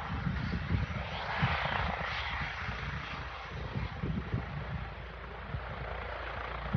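Helicopter running, a rushing noise that swells about one to two seconds in and then eases, over an uneven low rumble.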